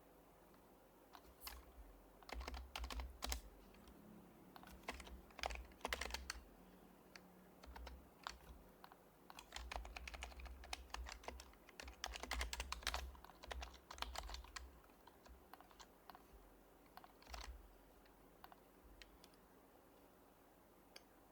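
Typing on an HHKB Professional Hybrid Type-S keyboard with Topre switches: quick runs of keystrokes in bursts with short pauses between them, dying away a few seconds before the end.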